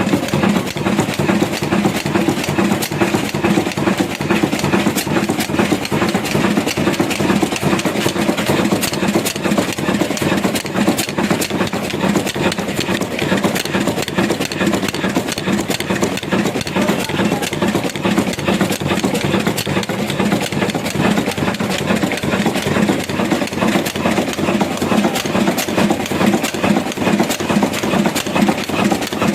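Heavy diesel engine running steadily, with a rapid, even knocking beat.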